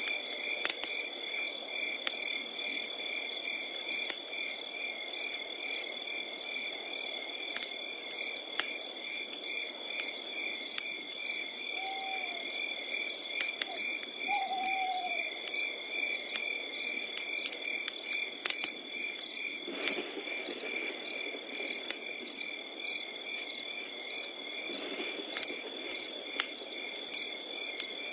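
Night insects chirping in an even pulse of about two chirps a second over a continuous high trill, with the sharp pops and crackle of a wood campfire scattered throughout. Two brief falling calls sound a little before the middle.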